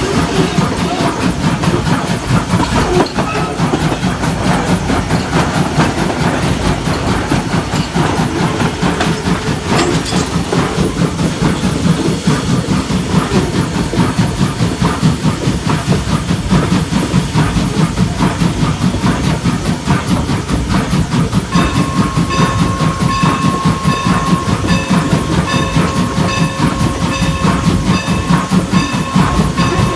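Norfolk and Western steam locomotive working, with a fast rhythmic exhaust, hiss of steam and clatter of the train on the rails. About two-thirds of the way in, a steady pitched tone sounds over it.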